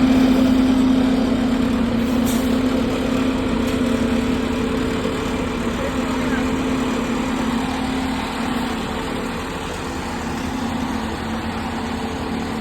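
Fire engine's diesel engine idling: a steady hum over a noisy rumble, growing quieter about eight seconds in.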